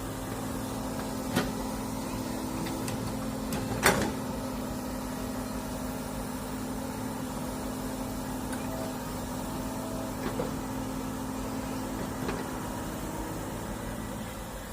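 Excavator's diesel engine running steadily, with a few sharp knocks over it, the loudest about four seconds in.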